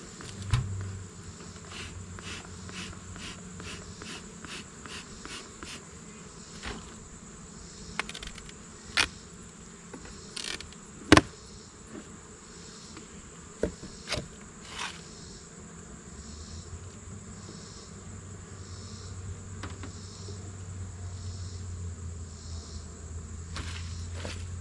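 Honeybee colony buzzing as its hive is opened, the hum getting louder in the second half, with a series of sharp knocks and clicks from the hive being worked, the loudest about eleven seconds in.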